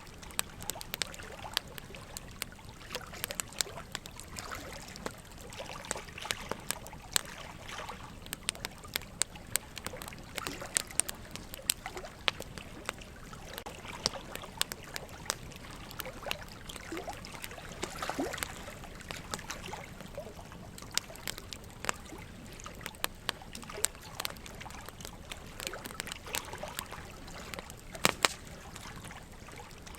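Wood fire crackling, with many sharp pops at irregular moments and a couple of louder snaps, over a steady trickle of running water.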